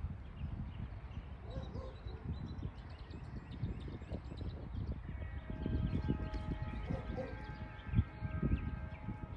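Local freight train rolling over a grade crossing: a low rumble with irregular clacks and thumps from the wheels. About five seconds in, a steady chord of several held tones joins, and faint bird chirps are heard early on.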